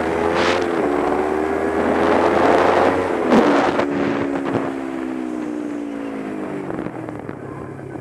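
Kawasaki Ninja 250 motorcycle engine pulling under throttle, its pitch rising slowly, then easing off about three seconds in with a short knock, the pitch falling away as the bike slows. Wind rushes over the microphone throughout.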